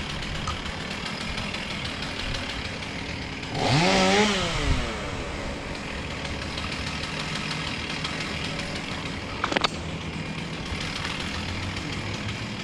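An engine idles steadily. About three and a half seconds in it revs briefly, pitch rising and falling back within about a second. A sharp click or knock comes about three quarters of the way through.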